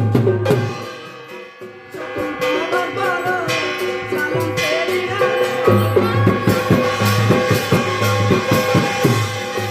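Odia Danda folk devotional music, instrumental without singing: sustained melody tones over drums and rattling percussion. The drumming turns into a fast run of beats about halfway through.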